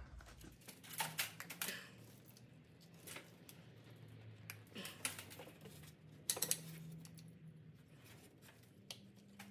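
Faint scattered clicks and taps of hands working in a truck's engine bay, pressing the spark plug wires back onto the plugs. The loudest is a quick cluster of clicks about six and a half seconds in, over a faint low hum.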